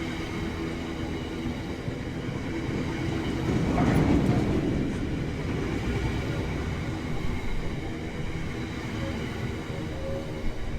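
Diesel train running through the station with a steady engine note, swelling louder about four seconds in as it passes.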